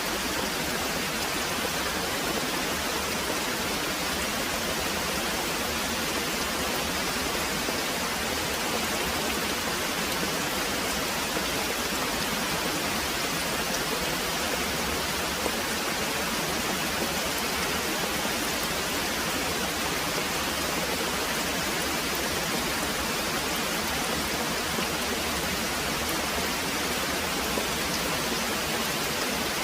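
Very heavy rain pouring steadily, a dense even hiss with no separate drops or breaks.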